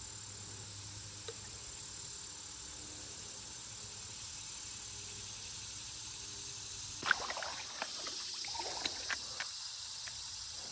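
Steady high insect chorus of crickets, with a few seconds of irregular splashing and knocks from about seven seconds in.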